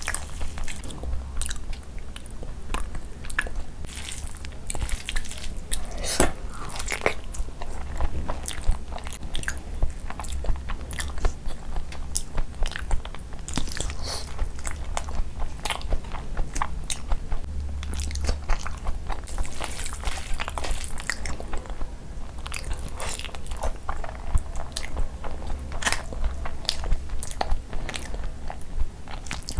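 Close-miked eating: steady chewing of mouthfuls of rice and curry eaten by hand, with wet mouth smacks and many irregular sharp clicks and crunches.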